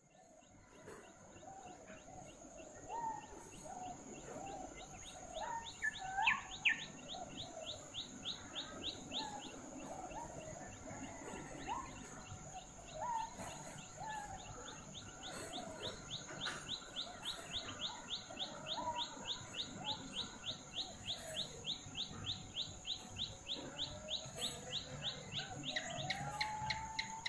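Birds chirping, with short rising and falling calls, and a fast regular pulsing call at about four to five pulses a second. A steady high-pitched whine runs underneath.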